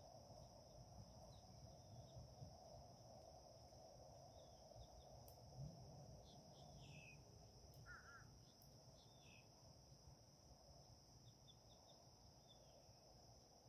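Faint outdoor ambience: a steady high insect drone with small birds giving scattered short, falling chirps, and a brief double call about eight seconds in.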